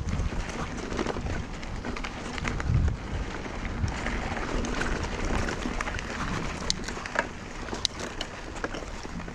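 Mountain bike rolling down a sandy dirt trail: tyres hissing and crunching through loose sand, with sharp rattles and clicks from the bike over bumps and wind rumble on the helmet camera.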